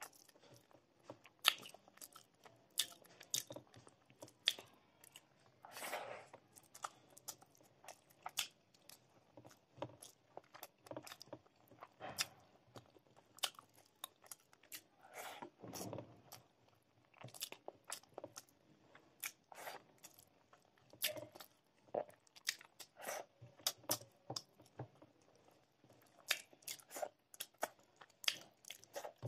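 Close-miked chewing of rice, egg and fish curry, with wet mouth clicks and smacks in an irregular stream and a couple of longer mouth sounds about six and sixteen seconds in.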